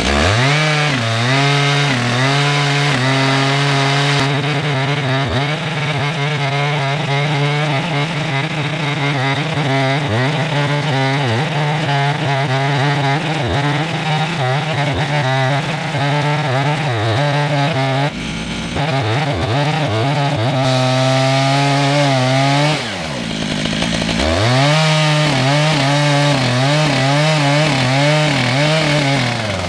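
Two-stroke chainsaw running at full throttle while milling a red oak log lengthwise, its pitch wavering under the load of the cut. The revs drop and climb back twice, about 18 and 23 seconds in, and fall away again near the end.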